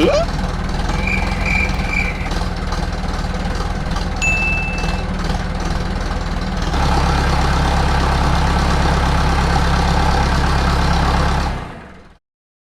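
Steady engine-like running drone, louder from about seven seconds in, with a brief high ding around four seconds in; it fades out near the end.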